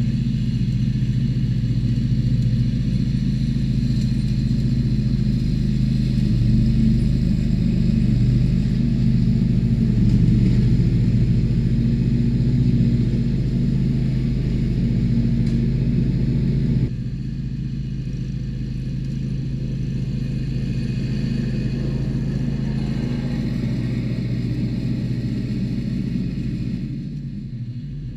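Tractor engine running steadily at a constant speed. About 17 seconds in the sound suddenly drops to a lower, steady level.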